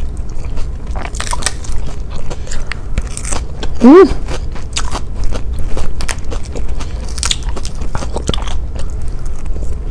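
Crunchy chewing of a mouthful of fresh salad, lettuce and cucumber, close to a clip-on microphone, with many small crunches and mouth clicks. About four seconds in comes a short rising hum of approval.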